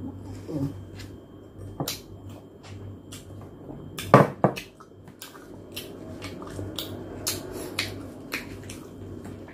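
Close-miked mouth sounds of a person chewing roast pork leg, with small wet clicks, over a steady low hum. About four seconds in there are two sharp knocks as a plastic mug with a spoon in it is handled.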